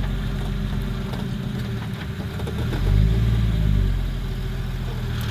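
Off-road vehicle's engine running at low speed while rock crawling, swelling up in pitch and loudness briefly about halfway through, with a few faint knocks.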